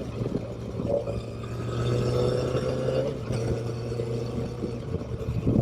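Motorcycle engine running steadily under way, its note rising gently and then dropping about three seconds in.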